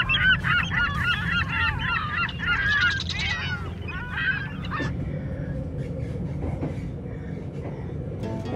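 A flock of birds calling over one another in many short rising-and-falling calls, which thin out and stop about five seconds in. Underneath is the steady low rumble of the moving train.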